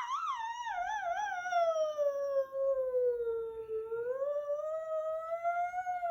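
A baby imitating a police siren with its voice: one long unbroken wail that warbles quickly at first, then slides down in pitch, rises slowly again and falls away near the end.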